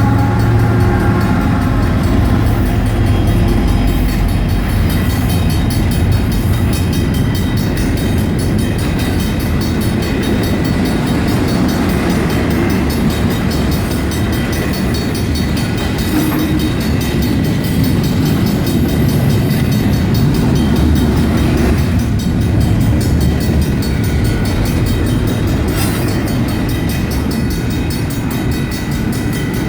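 Union Pacific double-stack intermodal freight train rolling through a grade crossing, a steady heavy rumble of wheels on rail. The crossing's Griswold mechanical bells keep ringing over it.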